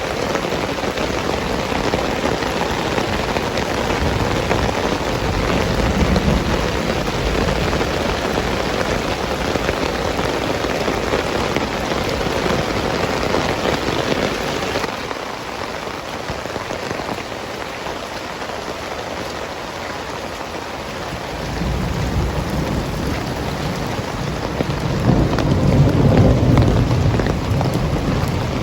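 Heavy rain pouring steadily, easing a little about halfway through. A deep rumble of thunder builds in the second half and is loudest near the end.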